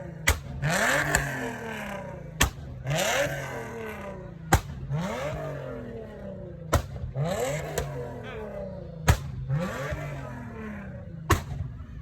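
Car engine revved in short throttle blips, about six times at roughly two-second intervals. Each rev rises and falls in pitch and comes with a sharp crack.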